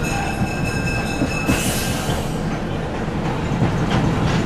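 Passenger train running, heard from on board: a steady low rumble, with a high, steady ringing tone for the first second and a half, then a brief hiss.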